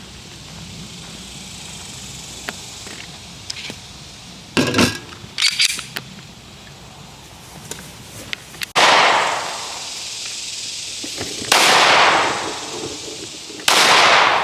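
Three gunshots at a shooting range, about two to three seconds apart in the second half, each a sudden crack followed by a long echoing tail; a few faint clicks come before them.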